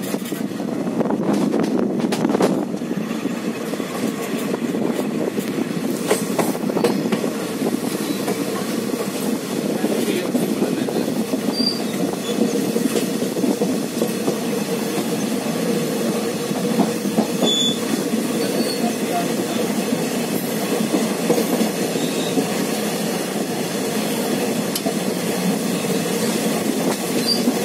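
Indian Railways train running along the track, heard from on board: steady wheel-and-rail noise, with a few short high squeaks about 12 and 18 seconds in.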